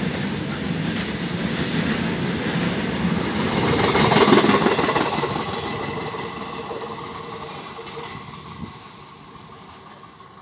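A freight train's covered goods wagons rush past at speed, their steel wheels rolling loudly on the rails. About four to five seconds in, the tail of the train goes by and the noise fades steadily as the train draws away.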